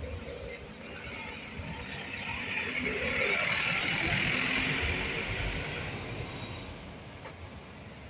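A bus driving past, its engine and tyre noise swelling to a peak mid-way and then fading away.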